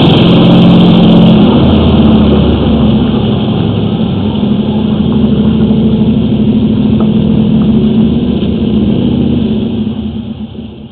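An engine running steadily and loudly, which dies away near the end.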